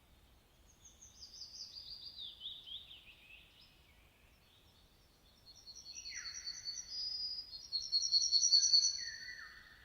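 Several songbirds singing. A quick cascade of notes falls in pitch over the first few seconds. About halfway through comes a fast run of high repeated notes that grows louder, mixed with lower down-slurred calls.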